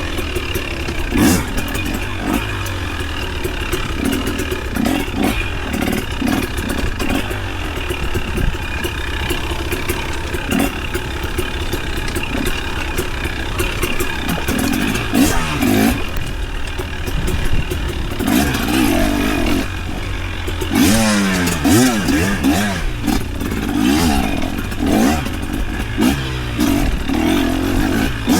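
Off-road vehicle engine running under load on a slick trail, its revs rising and falling as the throttle is worked, with sweeping revs about two-thirds of the way through and scattered clattering knocks from the machine over rough ground.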